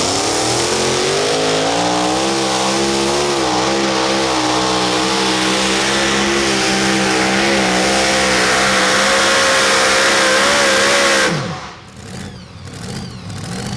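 Super modified two-wheel-drive pulling truck's engine at full throttle, held high and steady with a slight waver under the sled's load. About eleven seconds in the throttle is chopped and the engine note falls away sharply, ending the pull.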